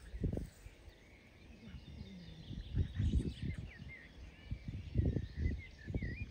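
Small birds chirping in short wavering calls, over irregular low thumps and rumble.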